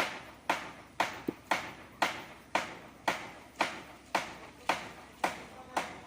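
A steady series of sharp strikes, about two a second, each ringing out before the next.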